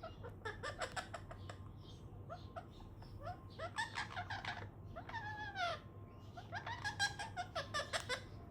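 Ringneck parakeet chattering in rapid bursts of chirps and squawks, with a falling drawn-out call about five seconds in.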